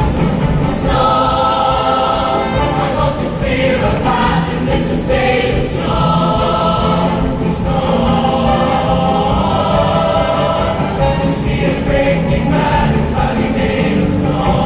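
Choir singing held notes with instrumental accompaniment.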